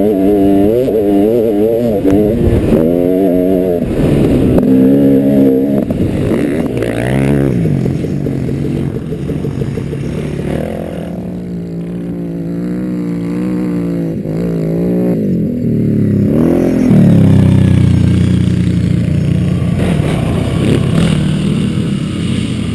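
Dirt bike engine being ridden, its pitch rising and falling repeatedly with throttle and gear changes, with a couple of quick revs up.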